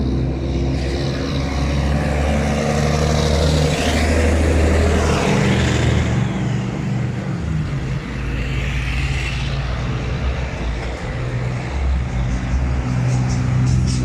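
Truck engines running, with a low, steady engine tone that drops in pitch about seven seconds in.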